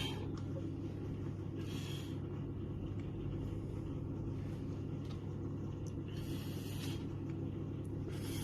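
A steady low hum, with two short hisses about two seconds and six seconds in.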